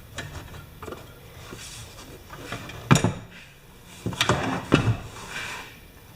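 Knocks and clatter of hard compressor parts being handled and fitted together, with a sharp knock about three seconds in and a quick cluster of knocks a little after four seconds.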